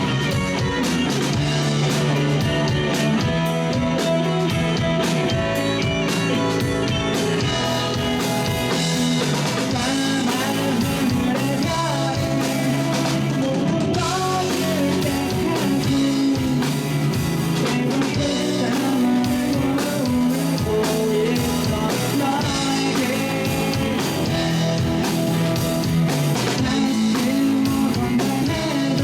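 Rock band playing live: drum kit, electric guitar and bass, with sung vocals.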